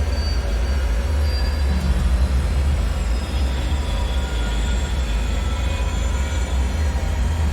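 Dark ambient drone: a steady deep rumble with faint high metallic tones drifting over it.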